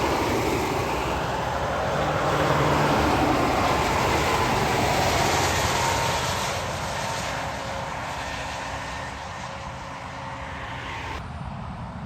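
A heavy truck driving past on a wet road: engine hum under a loud hiss of tyre spray. It is loudest a few seconds in and then fades away, and the hiss drops off suddenly near the end.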